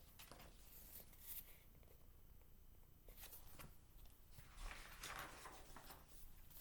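Near silence: room tone, with a couple of faint rustles about a second in and again near the middle.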